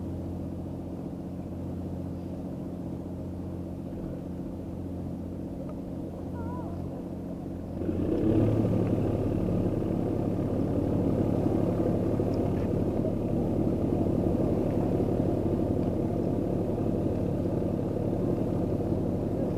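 An engine running steadily with an even low hum, getting louder and rougher about eight seconds in.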